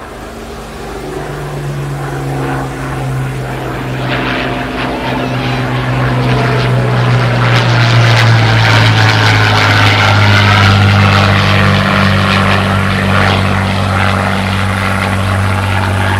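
Propeller-driven light aircraft flying overhead: a steady engine drone that grows louder to a peak about halfway through, then eases off a little, its note dropping slightly as it passes.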